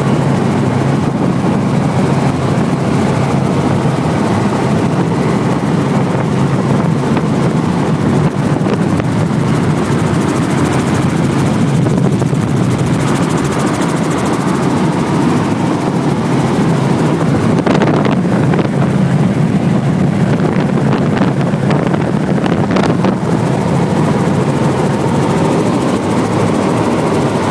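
Helicopter running steadily in flight: a loud, constant rotor and engine drone.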